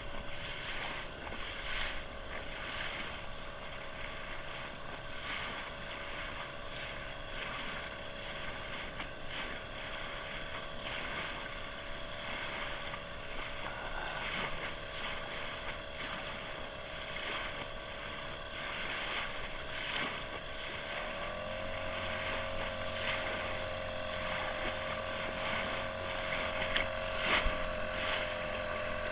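Boat motor running steadily with wind and water noise. About two-thirds of the way in, its pitch steps up slightly and a deeper hum joins it, as if the throttle was opened a little.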